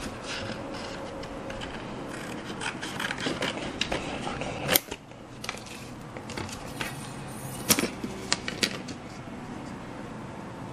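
Cardboard being handled and cut by hand: scraping and rustling with scattered light clicks, a sharp click about halfway through and two more near the end.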